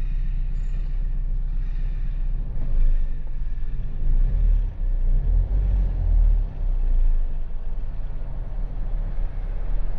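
Peugeot 508's 2.0-litre HDi diesel running, heard from inside the cabin as a steady low rumble, with a few louder low surges in the middle.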